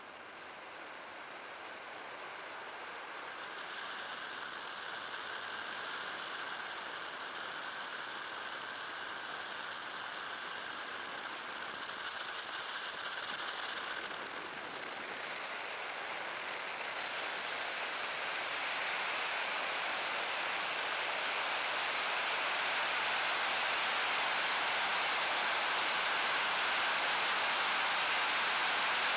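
Steady rushing wind and road noise, growing gradually louder, with no engine note, as from the electric trike under way.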